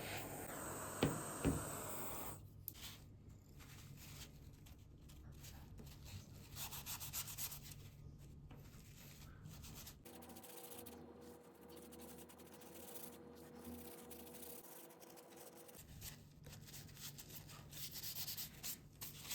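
Two short knocks about a second in, then sandpaper rubbing on the knife by hand in uneven strokes.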